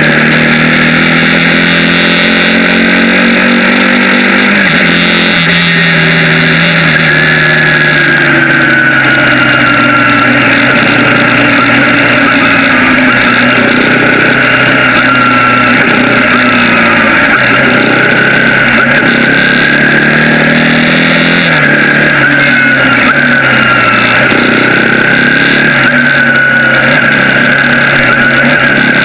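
Bajaj Pulsar 200NS single-cylinder engine pulling while riding, its pitch climbing and then dropping at an upshift about five seconds in and again around twenty-one seconds in, over a steady rushing noise.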